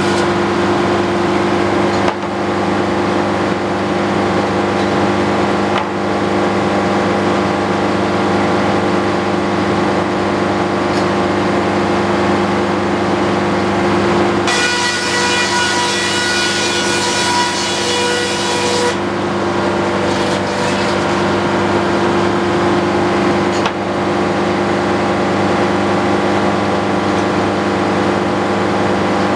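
Antique circular sawmill running steadily, its power unit droning with a steady low hum. For about four seconds in the middle, a higher ringing whine joins in as the blade cuts through the wood.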